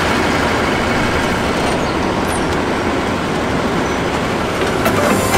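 Passenger train carriages rolling across a steel truss railway bridge, giving a steady, even rail noise.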